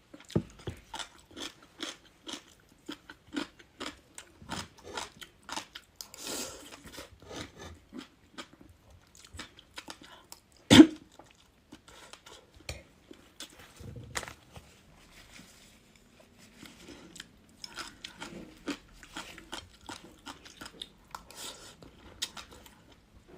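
Close-miked chewing and crunching of crisp gongcai (celtuce-stem pickle) with chopped chili: irregular sharp crunches and wet chewing. One much louder crack comes about halfway through.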